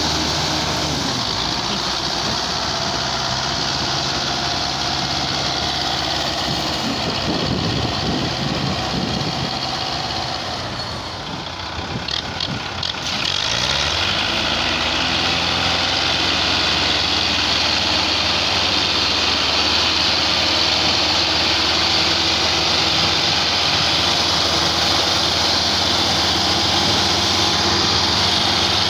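Tractor engine running under heavy load, its pitch sweeping up and down as it revs. It eases off briefly about halfway through, then picks up again and holds steady: the tractor is straining to pull an overloaded sugarcane trolley on slippery, rain-wet ground.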